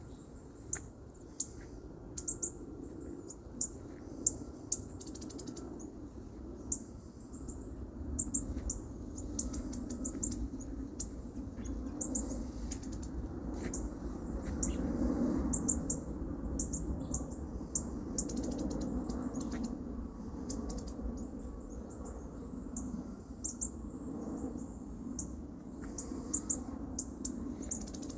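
A baby bird chirping: many short, very high peeps at irregular intervals over a steady low rumble.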